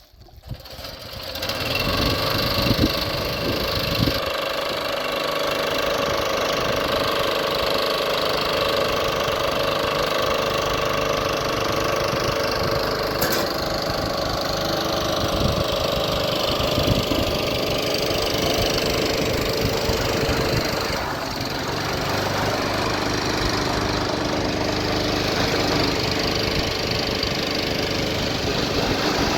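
An engine starts up and then runs steadily, a constant mechanical drone with a slight change in pitch about two-thirds of the way through.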